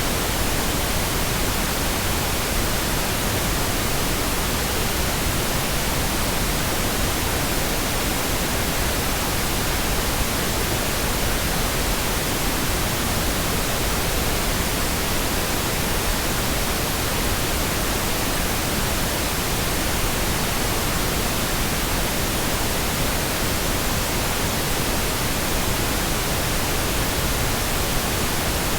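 Steady, unbroken pink noise: an even hiss spread across the whole range, with no change in level.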